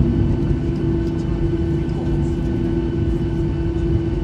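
Airliner cabin noise from a Boeing 737-800 taxiing after landing: a steady low rumble of the idling jet engines with a constant hum.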